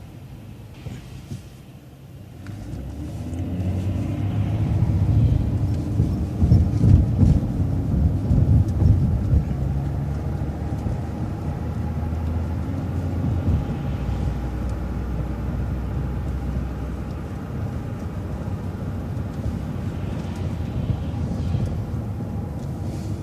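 City transit bus pulling away and running on, heard from inside: engine and road rumble that builds a couple of seconds in, is loudest for a few seconds as the bus gets up to speed, then settles to a steady cruising drone.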